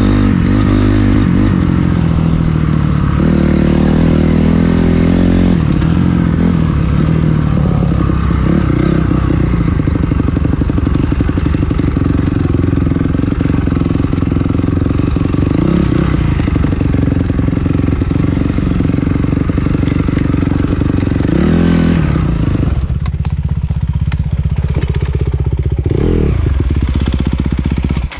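Dirt bike engine running while being ridden, its pitch rising and falling as the throttle is opened and closed. About 23 seconds in it settles to a lower, steadier note, and the sound cuts off suddenly at the very end.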